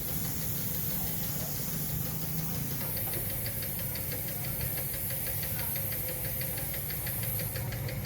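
A machine running with a steady low hum, joined about three seconds in by a rapid, even ticking of about six or seven strokes a second.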